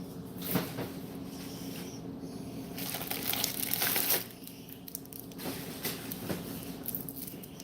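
Crinkling and rustling, with a few sharp clicks and a longer rustle near the middle, over a steady low hum.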